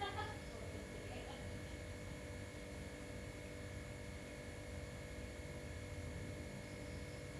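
Steady low electrical hum with a few faint, thin steady tones above it: a quiet room's background. A faint, brief murmur in the first second.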